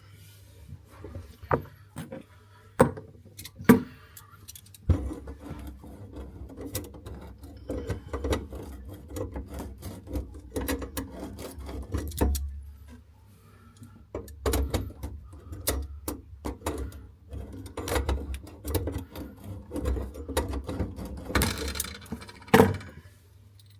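Hand tools and pipework being handled: repeated sharp clicks and knocks, with a low rumbling handling noise from about five seconds in.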